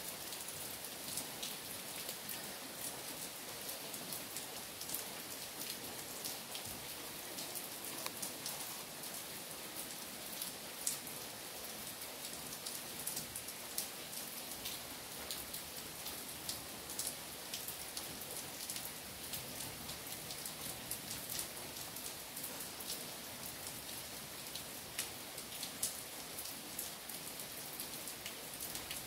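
Steady rain falling: an even hiss with many sharp, scattered drop ticks.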